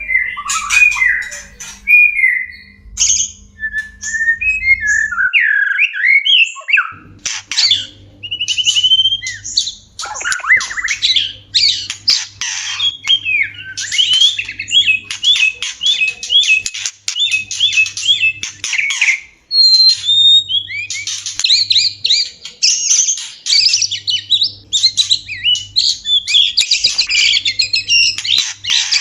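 White-rumped shamas (murai batu) giving courtship calls: a few melodic whistled phrases, then from about seven seconds in a fast, harsh chattering and trilling that goes on without a break.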